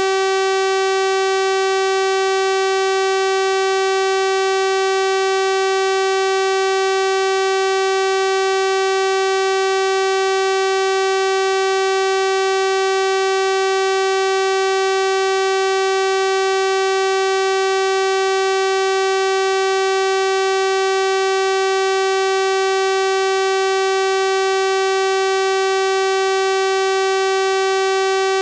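Synthesized 384 Hz sawtooth-wave tone, held steady at one pitch with a bright, buzzy stack of harmonics.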